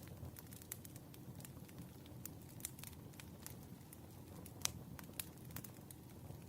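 Burning wood fire crackling softly, with irregular small pops over a low rumble and one louder pop a little past halfway.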